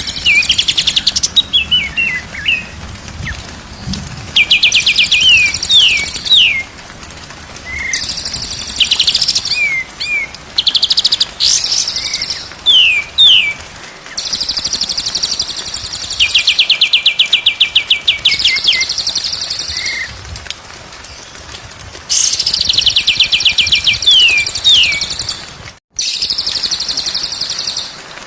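White-rumped shama (murai batu) song in repeated phrases: a fast buzzy trill, then a few quick downslurred whistles, alternating with harsh, scratchy high-pitched chatter.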